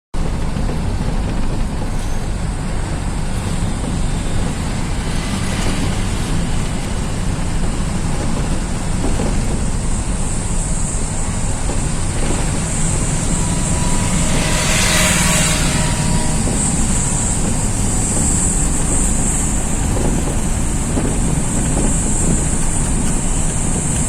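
Bus interior while driving: steady engine and road rumble, with a short hiss about fifteen seconds in.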